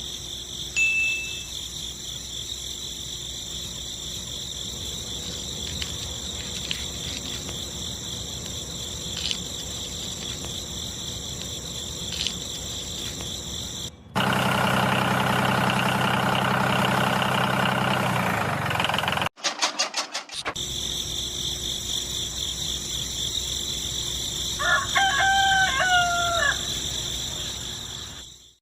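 A steady background hum with a high whine, with a louder, steady, deeper hum in the middle. Near the end a rooster crows once, the loudest sound here.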